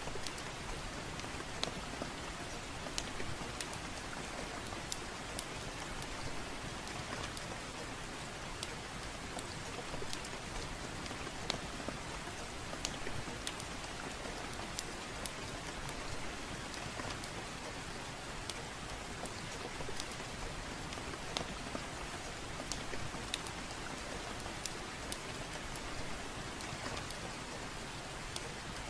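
Soft rain falling steadily, with scattered, irregular sharp crackles from a wood fire in a fireplace.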